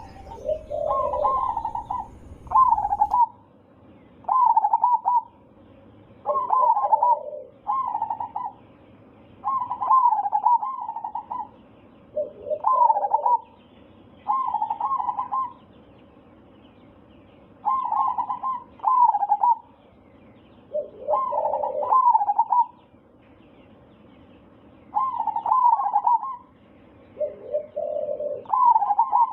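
Zebra dove (perkutut) cooing: a dozen or so short phrases of rolling coo notes, repeated every two to three seconds, some opening with a lower note.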